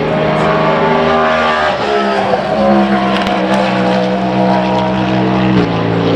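Racing car engines running at high revs on the circuit, the engine note shifting about two seconds in and dropping sharply about five and a half seconds in, as at a gear change.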